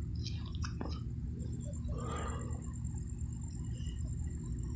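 Low steady rumble of an approaching CSX train, with a few short clicks about half a second in and a brief rustle about two seconds in.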